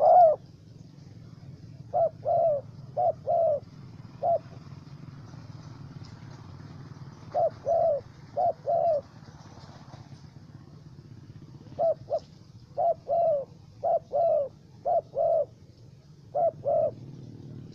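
Spotted dove (tekukur) cooing: short phrases of two or three coos, repeated in bursts with pauses between, over a faint steady low hum.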